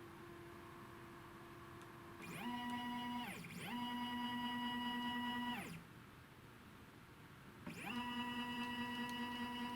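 Anycubic Photon resin printer's Z-axis stepper motor, driven by new MKS DLP firmware, whining as it moves. The pitch rises as it speeds up, holds steady and falls as it slows. This happens three times: a short move about two seconds in, a longer one right after, and a third near the end after a pause of about two seconds. A faint steady hum comes before the first move.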